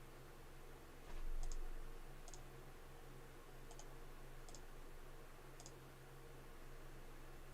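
Computer mouse clicking: about five single, sharp clicks at irregular intervals, with a low thump about a second in, over a steady low electrical hum.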